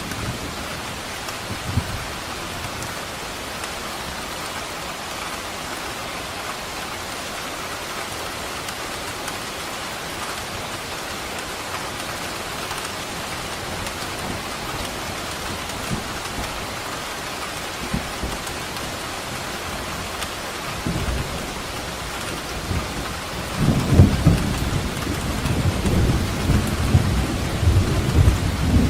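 Steady heavy rain with thunder: a brief low crack about two seconds in, then a long rolling rumble that builds from about 21 seconds and grows loudest in the last five seconds.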